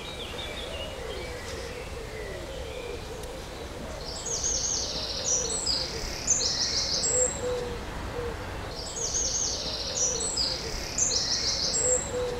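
Birdsong: a songbird sings the same high, trilled phrase twice, each about three seconds long, over a steady outdoor background with softer low calls.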